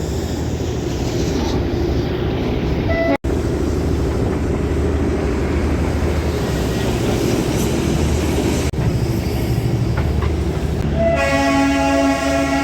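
Darjeeling Himalayan Railway toy train running, heard from inside a coach: a steady low rumble of the moving carriage. About eleven seconds in the locomotive's horn sounds one long steady note.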